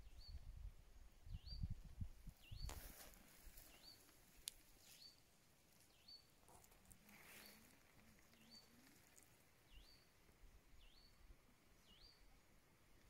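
A bird repeating a short, faint, hooked whistle about once a second, with low rustling and a few soft knocks in the first few seconds.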